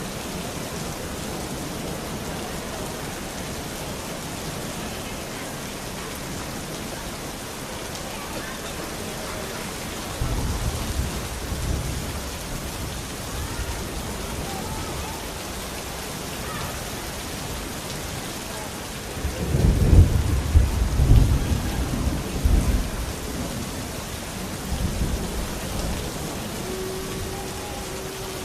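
Steady rain hissing, with rolling thunder. A low rumble comes about ten seconds in, a louder, longer rumble about twenty seconds in, and a weaker one shortly after.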